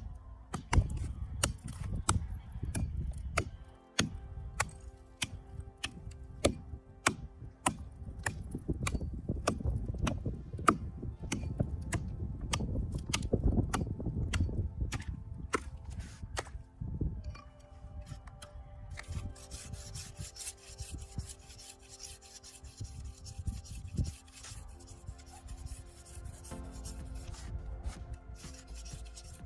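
Dry reed stalks being worked by hand: a run of sharp snaps and cracks over heavy rustling, then, about two-thirds of the way in, a steady scratchy rubbing of stalks against each other.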